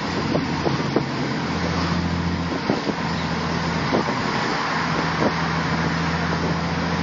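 Audi S5 V8 engine idling steadily through its aftermarket exhaust, a deep even purr, with a few faint clicks over it.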